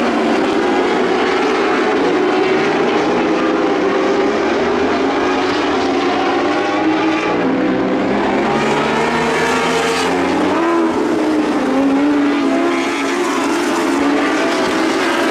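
Several lightning sprint car engines racing together, overlapping engine notes rising and falling in pitch as the cars accelerate and lift.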